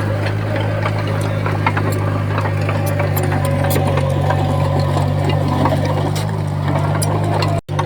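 Bulldozer's diesel engine running steadily, with scattered sharp metallic clanks. The sound cuts out for an instant near the end.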